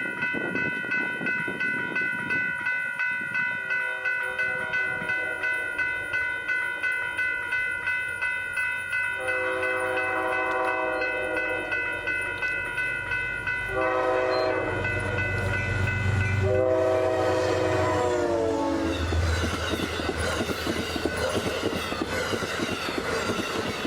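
Amtrak P32AC-DM diesel locomotive passing on a passenger train, sounding its horn in several long blasts, the last sliding down in pitch as it goes by, with a heavy engine rumble as it passes and then the wheels of the cars clattering by. A grade-crossing bell rings steadily through the first half.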